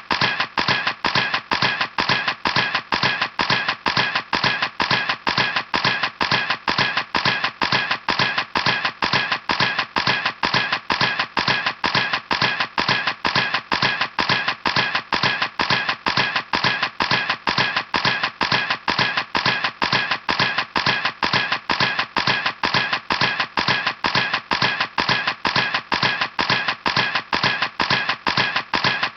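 Camera shutter clicking over and over at an even, fast pace, a few clicks a second, each click sharp and the same as the last.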